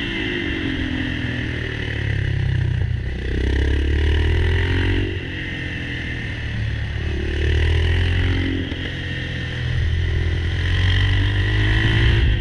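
Yamaha XT600's air-cooled single-cylinder four-stroke engine under way, its pitch climbing and falling back several times as the bike accelerates and eases off.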